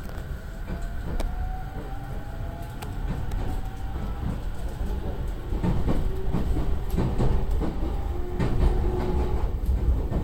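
Narita Line electric train running and picking up speed, heard from inside the car: low rumble of the wheels with clicks over the rail joints, a faint rising motor whine, and the noise growing louder.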